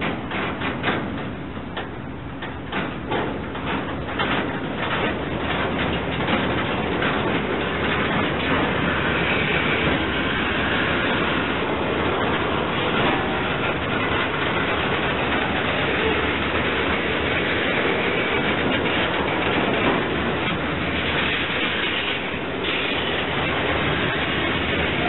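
Freight cars rolling past slowly: a run of wheel clicks over the first several seconds, then a steady, louder rumble of steel wheels on rail as the train gathers speed.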